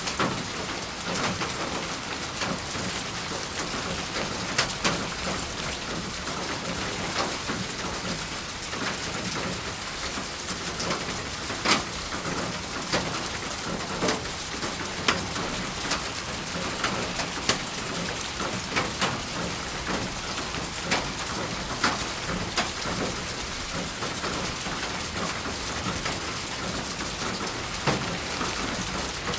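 Steady rain falling, an even hiss with sharp taps of single drops striking close by, scattered every second or so.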